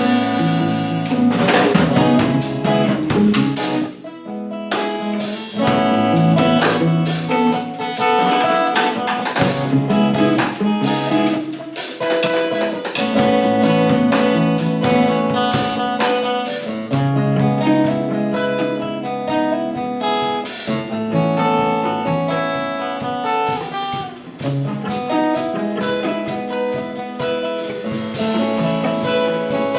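Guitar playing a continuous run of notes and chords through a Boss GT-100 multi-effects processor into two amplifiers in stereo. There is a brief gap about four seconds in.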